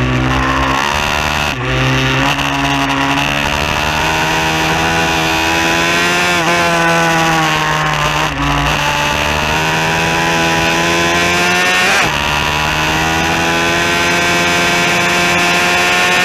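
Bucci F15R pit bike engine heard on board, pulling hard with its pitch climbing in several long stretches, broken by short dips near the start, about a third and half of the way in, and three-quarters of the way in, as the rider shifts or eases the throttle between pulls.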